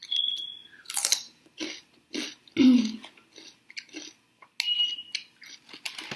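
Close-miked eating sounds: irregular wet chewing and biting with sharp clicky bursts, and a short throat sound from the eater about two and a half seconds in.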